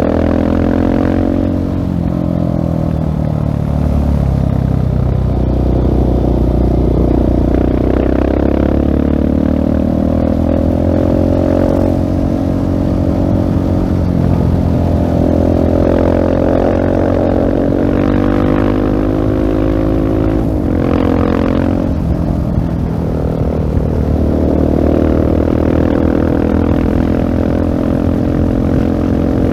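2016 Husqvarna 701 Supermoto's single-cylinder engine through a LeoVince full-system exhaust, under way: the revs climb and drop again and again as the bike accelerates, shifts gear and rolls off the throttle.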